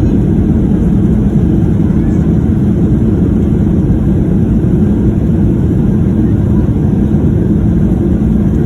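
Cabin noise of a Ryanair Boeing 737 rolling out on the runway just after a hard touchdown: a steady, loud, low rumble of engines and landing gear.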